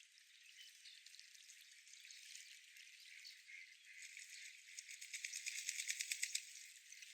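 Faint outdoor park ambience with scattered high chirps. A little past halfway a bird gives a fast, loud rattling chatter of about ten clicks a second, lasting under two seconds.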